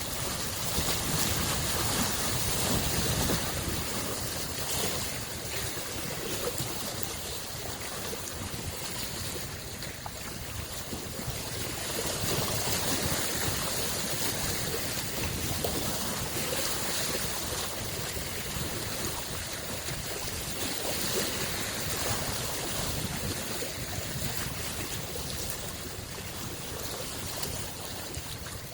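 Small waves washing against the shore of Lake Biwa, a steady wash that swells and eases over several seconds.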